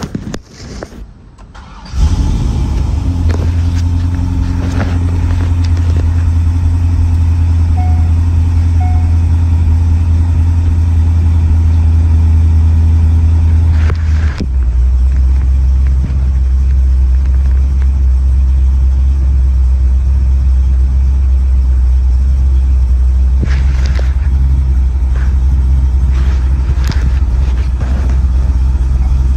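1998 Corvette's 5.7-litre LS1 V8 engine catching about two seconds in and then idling steadily, heard from inside the cabin. About fourteen seconds in the idle settles to a slightly lower pitch.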